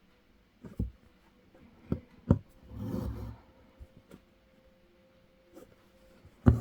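Hand-embroidery needle piercing fabric stretched in an embroidery hoop: several sharp pops, the loudest near the end, with a short rasp of thread drawn through the fabric about three seconds in.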